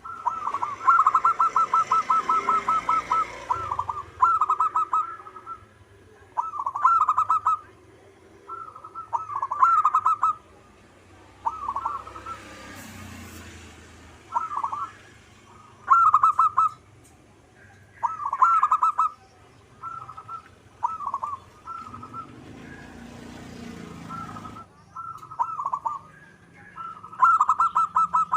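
Zebra dove (perkutut) cooing. A fast run of rapid notes opens the call, then short trilled coo phrases repeat every second or two.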